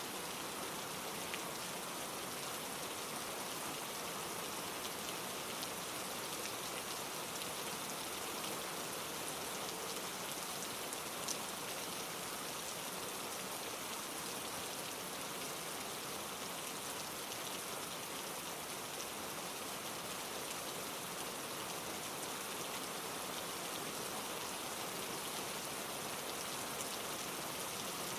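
Steady rain with close raindrops pattering on leaves, a dense even hiss with scattered individual drop ticks; one sharper drop stands out about eleven seconds in.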